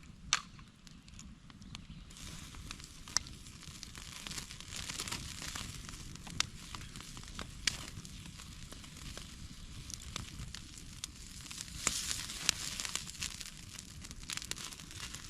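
Wood campfire crackling, with sharp pops now and then over a steady sizzling hiss from steak cooking on it.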